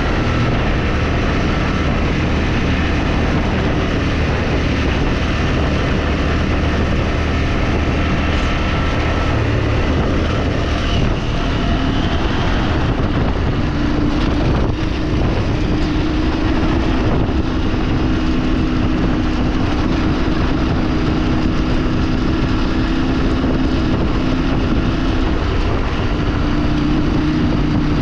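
A motor vehicle's engine running while driving, over a steady rush of road and wind noise. About ten seconds in, the engine note drops from a low hum to a higher, steadier tone, as with a gear or speed change.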